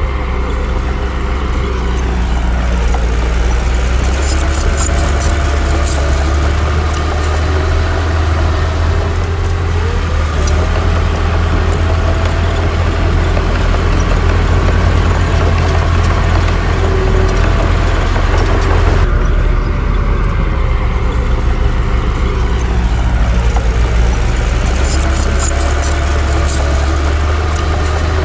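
Heavy diesel engine running steadily with a deep drone, its pitch gliding up and down a few times, with scattered sharp clicks and clanks over it.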